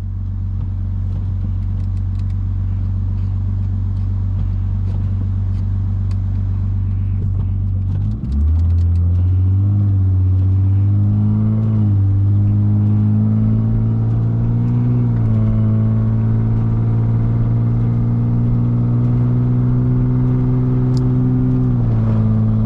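Lexus IS250's 2.5-litre V6 engine pulling away: steady low running for about eight seconds, then it accelerates, climbing in pitch through a couple of shifts, holds at a steady cruise and eases off near the end.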